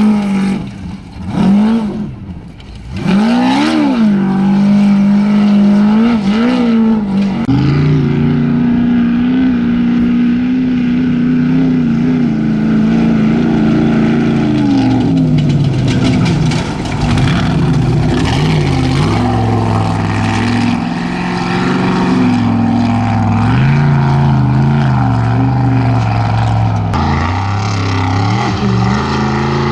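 Off-road race vehicle's engine running hard, its pitch rising and falling with throttle and gear changes. In the first few seconds the revs drop and blip up in quick swells, then it holds high revs for long stretches.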